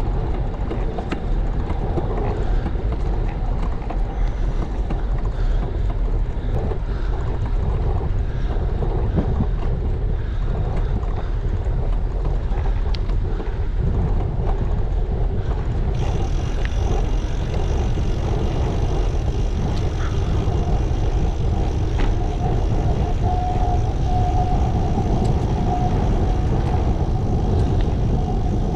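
Wind rushing over the camera microphone of a bicycle in motion, a steady low rush with road noise underneath.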